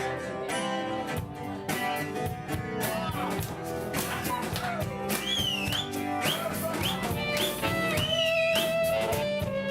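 Live band music: guitar with drums. About halfway in, a high lead line enters, bending and wavering in pitch.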